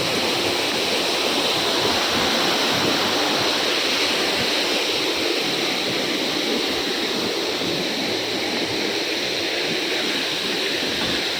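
Large waterfall crashing down, a steady loud rush of falling water.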